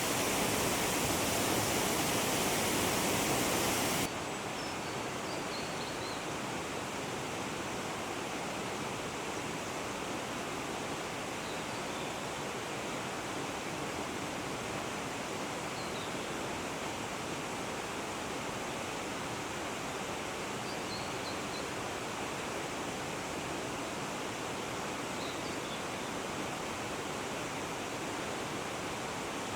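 Steady rush of waterfall water, which drops abruptly to a quieter rush about four seconds in. Faint, short, high bird calls sound over it every few seconds.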